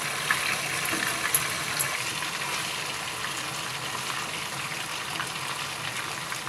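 Chicken tikka pieces sizzling steadily in shallow oil in a frying pan, with a few light clicks of a utensil against the pan in the first two seconds as the pieces are turned.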